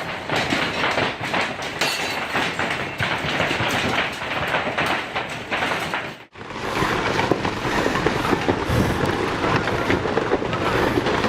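Hail pelting down: a dense, continuous clatter of hailstones hitting hard surfaces. It breaks off for an instant a little past halfway and then resumes just as heavily.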